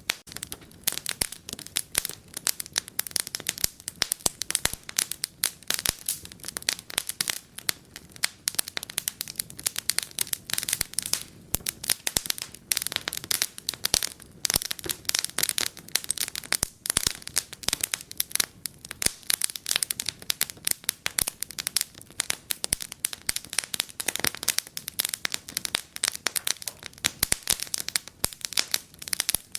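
Wood fire crackling in a fireplace: a constant stream of irregular snaps and pops over a soft hiss.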